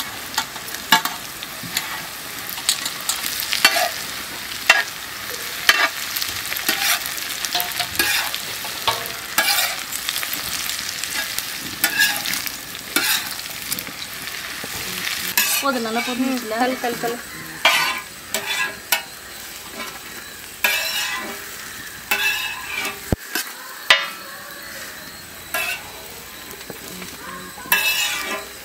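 Shredded parotta frying in hot oil in a large iron pan: a steady sizzle, with a spatula scraping and tapping against the pan about once a second as the pieces are stirred.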